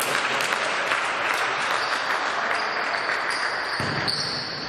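Spectators applauding, a dense run of many quick hand claps.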